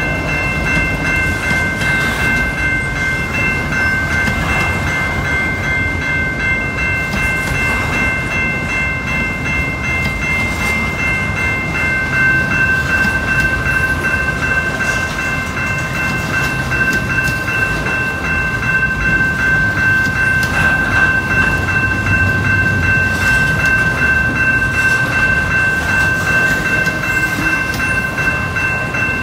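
Freight train rolling past, with a steady rumble and several steady high-pitched tones held over it. One of the tones stops about twelve seconds in.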